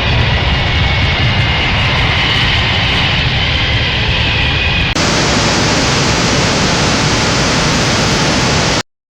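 Steady jet airliner engine noise, a loud even rush with a faint whine on top. The sound changes abruptly about five seconds in, as at a cut between two recordings, then stops dead near the end.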